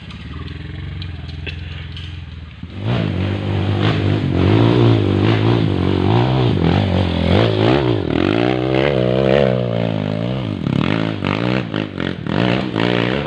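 Off-road trail motorcycle engine running steadily at low revs for about three seconds, then revved hard, its pitch rising and falling again and again.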